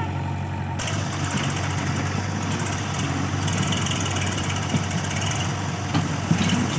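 Diesel engines running steadily at a soil-loading site, with a wide rushing noise joining about a second in while soil is loaded into a tractor.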